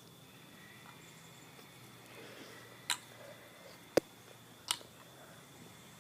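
Three sharp wooden clacks of a kendama ball landing on the toy's wooden cups or spike, spaced under a second apart, the middle one the loudest, over a faint steady hum.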